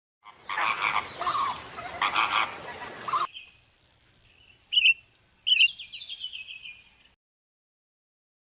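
Harsh, raspy bird calls for about three seconds that cut off abruptly. Then a different recording follows: two short chirps and a quick run of falling notes over a faint, steady high-pitched tone, ending in silence.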